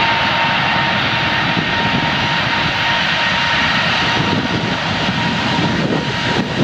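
Aeroplane engine sound effect: a loud, steady jet-like rush with a high whining tone, playing for the toy aeroplane.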